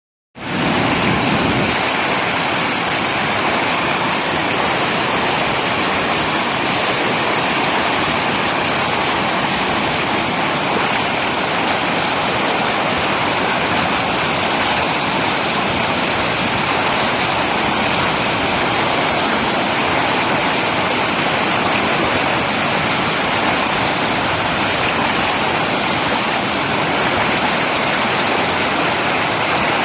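Steady rushing of whitewater: a river rapid running without a break.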